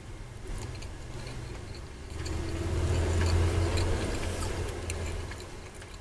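A vehicle going by: a low rumble swells about two seconds in and fades away again, with small clicks and taps scattered through it.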